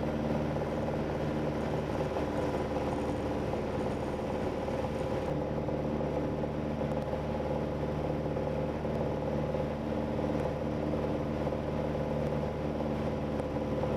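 Steady cabin drone of a Piper PA-28-180's four-cylinder engine and propeller in cruise flight, with even engine tones that do not change in pitch. The high hiss eases slightly about five seconds in.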